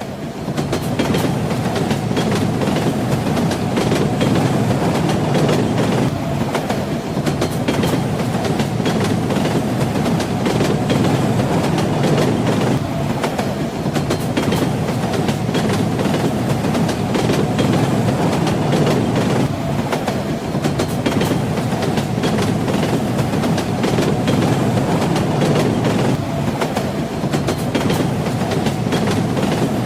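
Train wheels clattering over the rails: a steady rolling rumble with frequent sharp clicks from the wheels running over rail joints.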